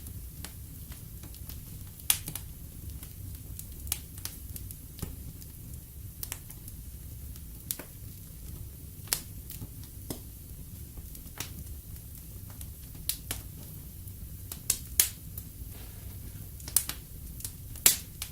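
Wood fire in a fireplace crackling, with irregular sharp pops over a low steady rumble of the flames; a few pops stand out louder, about two seconds in, near the middle and near the end.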